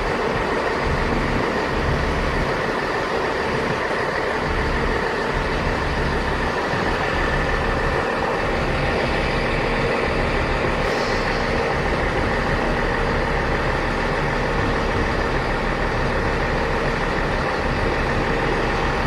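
Train standing at the platform with its engine or equipment running: a steady hum with several held tones, unchanging throughout.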